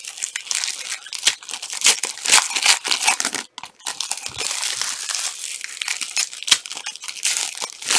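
Plastic trading-card pack wrappers crinkling and tearing as packs are opened and cards handled: a dense run of sharp crackles, with a brief pause about three and a half seconds in.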